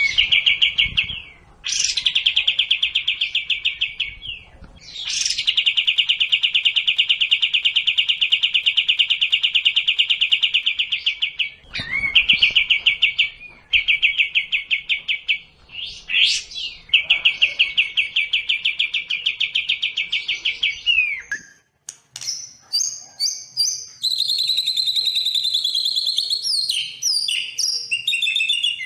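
Songbird song from a sekoci and white-rumped shama (murai batu) master recording. It starts with several long, very fast, even trills, each lasting a few seconds with short breaks between them. From about 22 seconds in, it changes to varied, higher-pitched whistled notes and slides.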